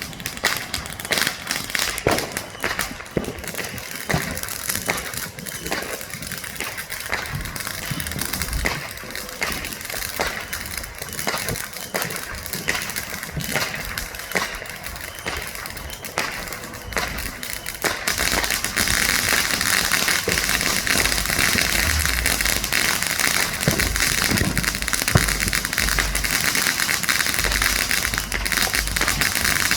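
Consumer fireworks going off: scattered firecracker pops and bangs, then from about two-thirds of the way in a dense, continuous crackling with low booms underneath.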